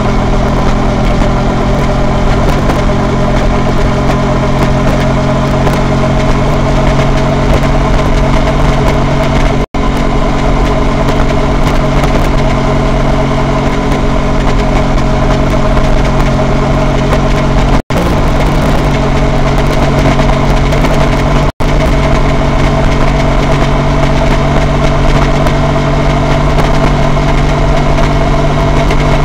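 Honda VT250F's 250 cc V-twin engine running steadily at cruising speed, heard from the moving motorcycle with a constant rush of wind and road noise. The recording cuts out for an instant three times.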